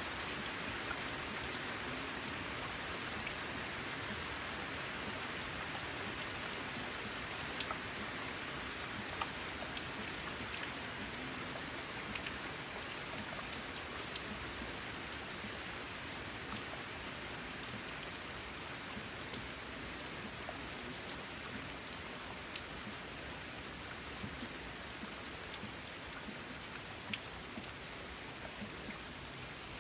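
Steady rain on a corrugated zinc roof: an even hiss of rainfall with occasional sharp, separate drop hits.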